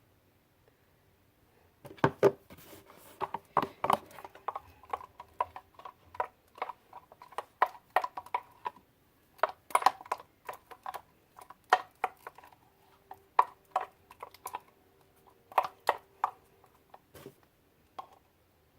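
A spoon stirring slime in a bowl after laundry detergent has been added as activator, knocking and scraping against the bowl in quick, irregular clicks that start about two seconds in.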